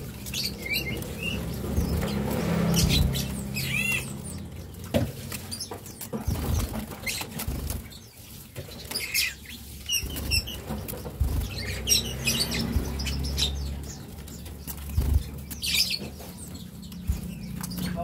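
Young cinereous tits fluttering their wings as they flit about a crowded cage, with short high chirps now and then, over a low steady background hum.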